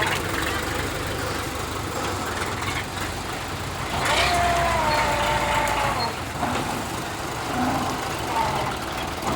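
Old Belarus tractor's diesel engine running steadily. A drawn-out, slowly falling tone rises over it about four seconds in.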